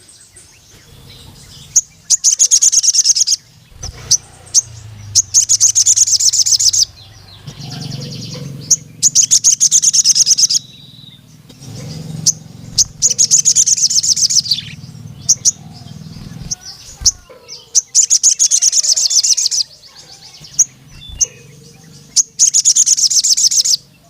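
Male crimson sunbird (sogon) singing in repeated bursts of rapid, high trilling "cuit" notes, each burst about one and a half to two seconds long, with single sharp chips between them. It is the song of a male calling out to a rival male.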